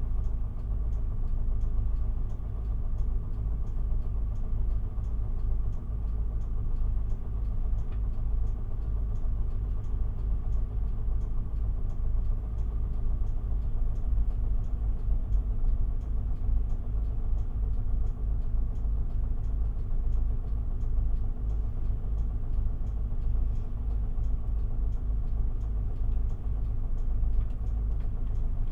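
Interior sound of an Isuzu Erga city bus's 5.2-litre four-cylinder diesel, heard from inside the cabin as a steady low rumble at an unchanging engine speed. A faint regular ticking runs about twice a second over it.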